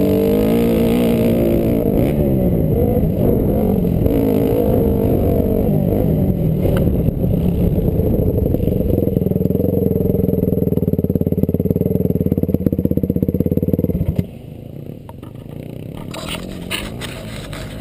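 Honda CRF250R four-stroke single-cylinder dirt-bike engine revving up and down, then running at a steady low speed before cutting off suddenly about fourteen seconds in. A few light clicks follow near the end.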